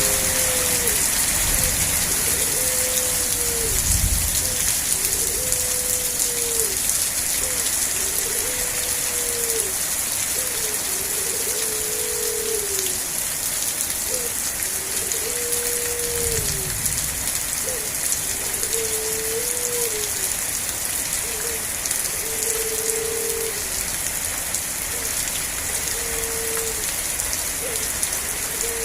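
Steady rain falling. A low hooting call, each about a second long, repeats over it roughly every two seconds.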